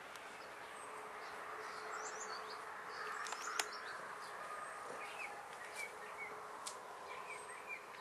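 Small birds chirping over a steady outdoor hum, with one sharp click about three and a half seconds in.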